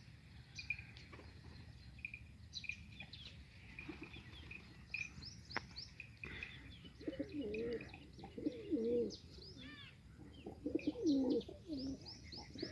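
Pigeons cooing in wavering low calls, mostly in the second half, over constant quick high chirping and twittering from small birds.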